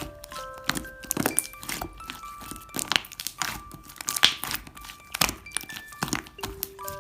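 Music-box melody of held, bell-like single notes, over frequent sharp clicks and taps.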